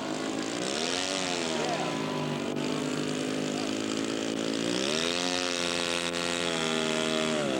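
Radio-controlled scale model airplane's engine running, its pitch swinging up and down with the throttle. The pitch dips and climbs in the first two seconds, rises again about five seconds in, holds, and drops near the end.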